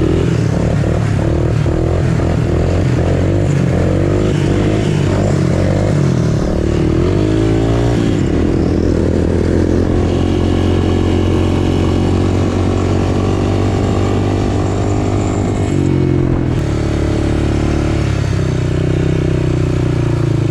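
Off-road motorcycle or three-wheeler engine running loud and close, uneven in pitch at first, then climbing about eight seconds in and holding a steady note, with a step down in revs about sixteen seconds in.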